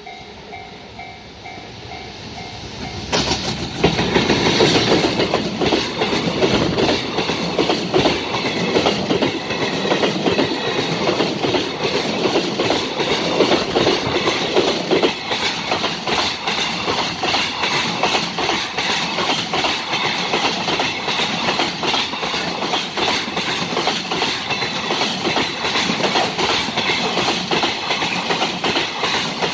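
A JR Freight container train hauled by an EF210 electric locomotive approaching and passing close by at speed. The rumble grows for the first few seconds and turns loud about three seconds in as the locomotive goes by. The container wagons then follow with a steady rush and a clickety-clack of wheels over the rail joints.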